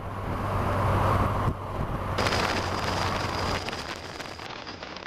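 Wind rush and road noise from a motorcycle on the move, over a steady low engine hum; it cuts off abruptly about a second and a half in, giving way to a different hiss that fades near the end.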